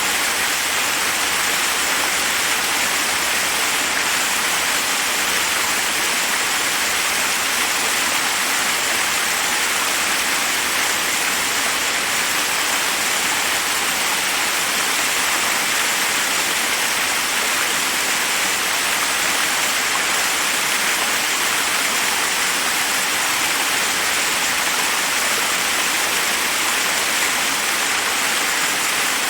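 Forest waterfall rushing over rocks: a steady, even hiss of falling water with no breaks.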